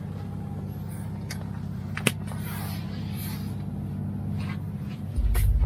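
Semi truck's Detroit DD13 diesel engine running steadily while driving, heard from inside the cab, with a sharp click about two seconds in and a much louder low drone cutting in near the end.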